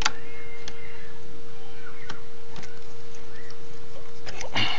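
A few light metallic clicks of tweezers picking at a stuck screw inside an electronic keyboard's chassis, over a steady hum.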